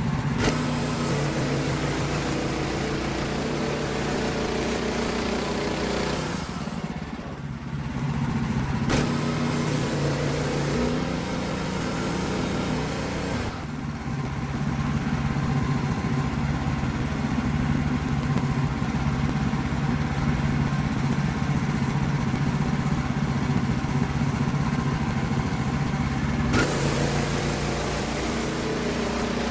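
Engine of a WoodMizer LX55 portable bandsaw sawmill running steadily under load as the blade cuts through a poplar log. The sound shifts abruptly a few times.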